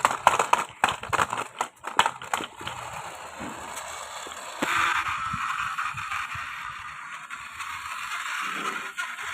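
Plastic toy vehicles clattering with a quick run of clicks and knocks as they are handled, then a steady rasping, scraping noise that grows louder about five seconds in.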